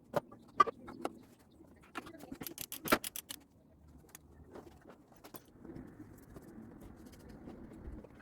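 Sharp clicks and knocks of tools and a plastic oil drain pan being handled: a few single clicks in the first second, then a quick run of clicks about two and a half seconds in.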